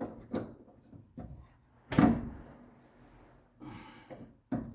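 Metal parts knocking and scraping as a steering rack is worked loose: a few light clicks, one sharp clunk about two seconds in, then a short scrape near the end.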